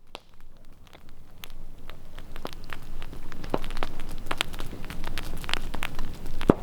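Campfire crackling with irregular sharp pops, growing louder over the first couple of seconds.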